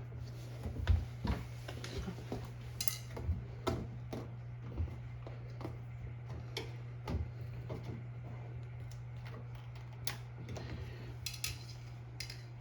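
Irregular light clinks, clicks and knocks of metal tools and parts being handled during a washing machine door-seal repair, the sharpest about a second in, over a steady low hum.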